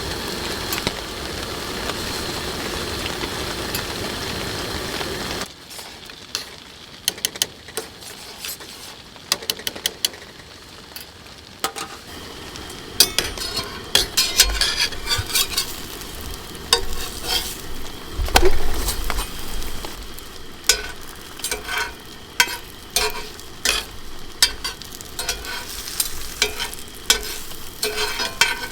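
Grilled cheese sandwich frying in a pan on a propane camp stove. A steady sizzling hiss fills the first five seconds and cuts off abruptly, followed by quieter frying with many scattered sharp clicks and crackles.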